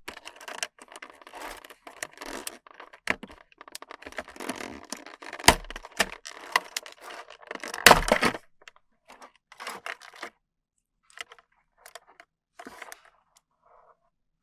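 Toy packaging being handled and opened: crinkling and tearing with many small clicks, and two sharp snaps about five and a half and eight seconds in. After that it thins to occasional clicks.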